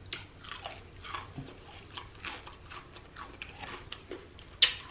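Close-up biting and chewing of crunchy deep-fried battered seafood: a run of short crackling crunches, the loudest near the end.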